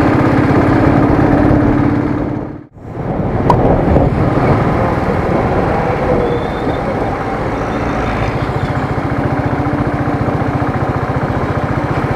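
Royal Enfield Thunderbird's single-cylinder engine running while riding, its steady low thudding under wind noise on the microphone. The sound cuts out for an instant about two and a half seconds in, then carries on.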